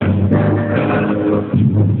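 Live band music at a sound check, with sustained chords over a low bass line and a brief break about one and a half seconds in, recorded on a mobile phone so it sounds thin with no top end.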